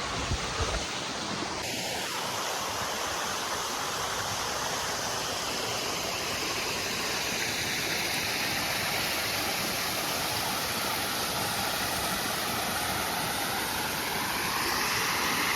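Steady rush of water, an even hiss that holds unchanged.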